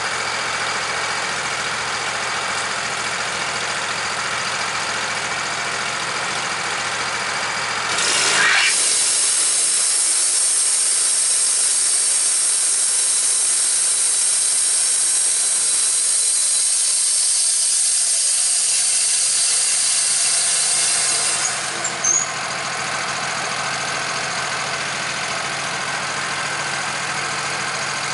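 Wood-Mizer portable bandsaw mill: its engine runs steadily, and about eight seconds in a loud high-pitched squealing whine starts as the band blade cuts through the log. It lasts about thirteen seconds before the mill drops back to the plain engine sound.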